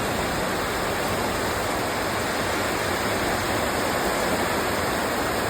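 Heavy rain: a steady, even rushing hiss.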